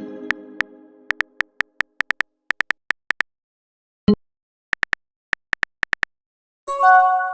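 Chat-app sound effects: a chime fading out at the start, then a run of quick keyboard tap clicks from simulated typing, with a short pop about four seconds in. Near the end a bright chime of several notes sounds, the kind an app plays for an incoming message.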